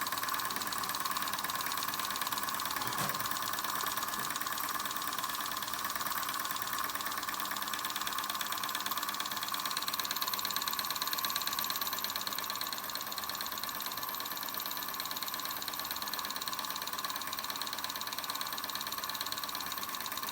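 Weeden No. 14 toy steam engine running at speed, a fast, even mechanical clatter that holds steady throughout.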